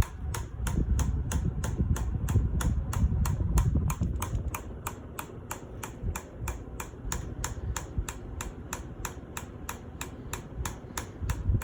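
Hunter Summer Breeze ceiling fan running on high with a low rumble and an even clicking of about four ticks a second. The clicking is a sign of something hitting as the fan turns, which the owner notices along with a wobble; he thinks the bearings are shot.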